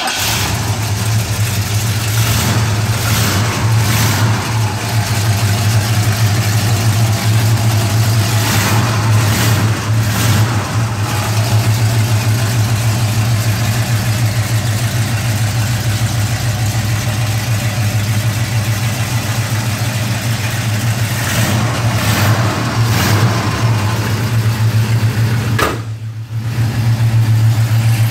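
1970 Ford Torino 429 Cobra Jet V8, fitted with headers and dual exhaust, idling steadily with a deep low hum, with a brief drop in level near the end.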